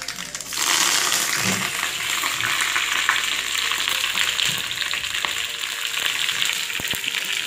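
Chopped green vegetables going into hot oil in a black wok: a loud sizzle starts suddenly about half a second in and carries on as a steady frying hiss.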